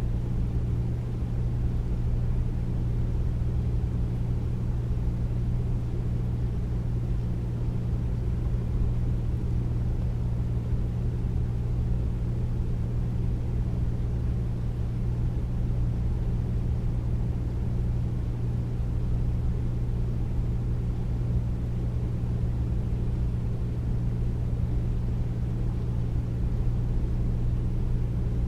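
Air conditioner running steadily: a deep, even hum and rush of air, with no change throughout.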